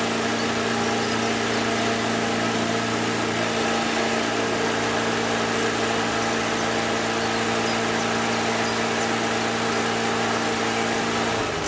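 A motor or engine running steadily at one speed, a constant hum with a hiss over it, that stops just before the end.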